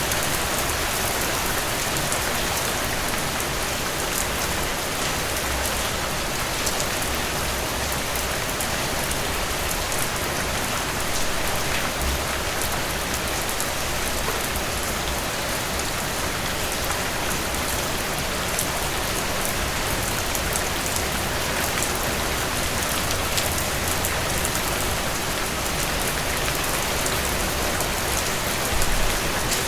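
Heavy rain pouring steadily, a dense, even hiss of drops hitting surfaces, with a low rumble coming and going underneath.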